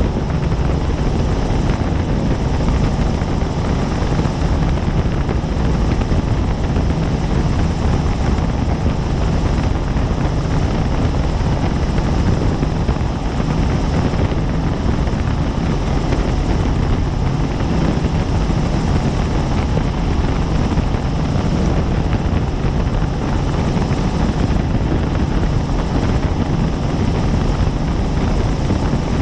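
Helicopter in steady cruising flight: a loud, constant drone of rotor and engine that is heaviest in the low end and does not change.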